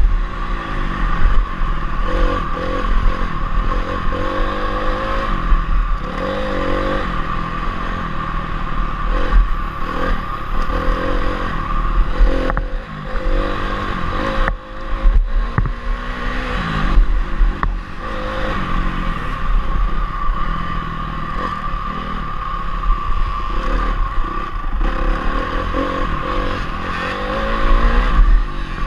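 Honda CRF250R single-cylinder four-stroke motocross engine revving up and down over and over as the bike is ridden hard around the track, with clattering from the bike over the terrain.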